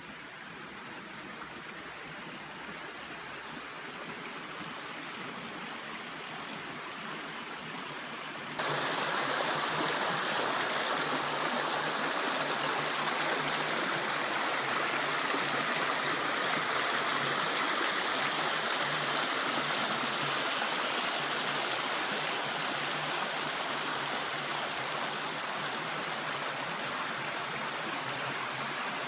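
Creek water running: a steady rushing noise that builds gradually, then jumps abruptly louder about eight seconds in and stays there.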